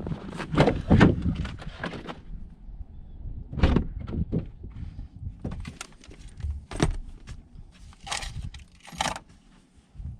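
Irregular knocks, thuds and scuffs, loudest in the first two seconds, with two short scraping sounds near the end.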